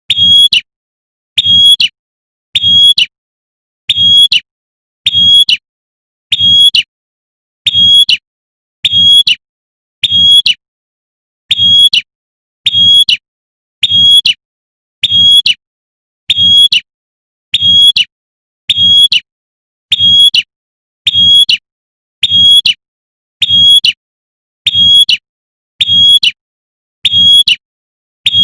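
Female prenjak (prinia) giving its sharp 'tembakan' call, the female's call to the male, repeated evenly about once every 1.2 seconds. Each call is short and high-pitched, with a weaker low thump under it.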